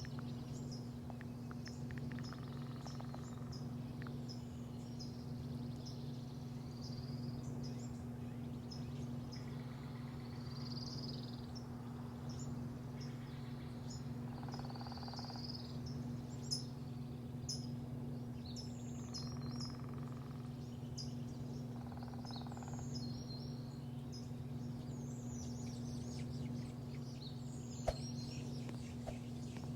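Small birds chirping in short, repeated calls over a steady low machine hum, with a couple of faint clicks.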